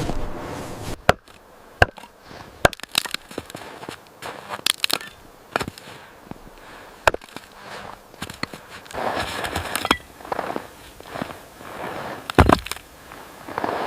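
Irregular sharp snaps and clicks, several a second at times, with a louder heavier thump near the end.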